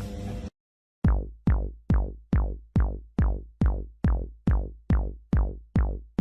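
Electronic music: a deep drum-machine kick drum hits steadily a little more than twice a second, each hit dropping in pitch as it fades. It starts about a second in, after the previous clip's background sound cuts off abruptly and a brief silence.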